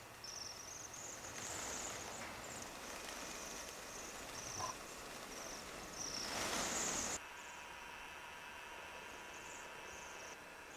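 A small songbird giving a series of very high, thin notes and trills over a background hiss. A rushing noise swells and cuts off suddenly about seven seconds in, after which fainter high notes continue.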